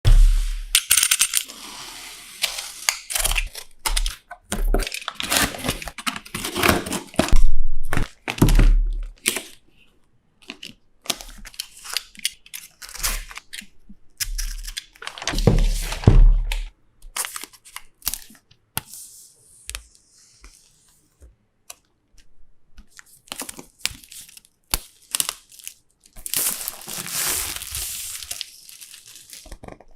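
Hands opening product packaging: plastic wrap crinkling and tearing, with irregular clicks, taps and dull knocks against the box and its contents.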